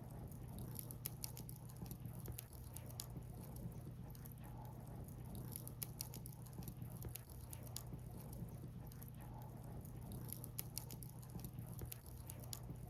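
Firewood burning, crackling with irregular sharp pops and snaps, over a low steady hum.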